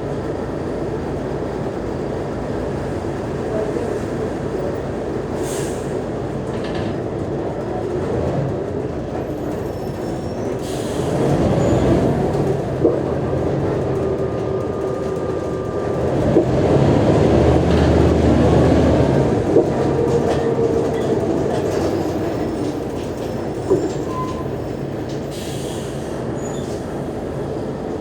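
Mercedes-Benz O345G articulated city bus running on the move, its diesel engine and drivetrain heard from on board. The sound swells louder twice, briefly a third of the way in and for several seconds past the middle, and a few sharp knocks stand out.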